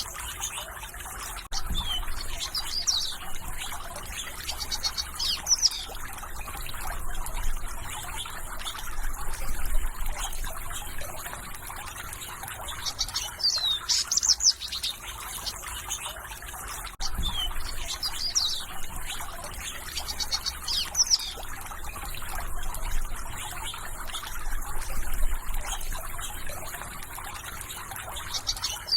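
Birds singing, with short whistled phrases recurring every few seconds over a steady background wash of trickling water or insects.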